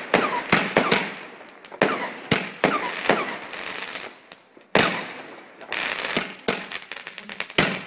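New Year's fireworks: a rapid, irregular string of loud bangs from bursting rockets and firecrackers, with a few short falling whistles and a sizzling crackle about six seconds in.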